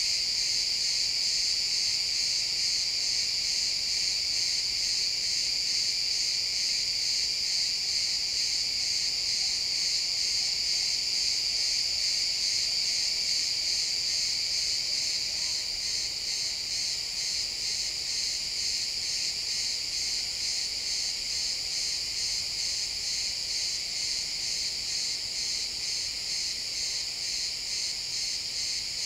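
A dense chorus of crickets chirping, steady and high-pitched with a fast pulsing trill.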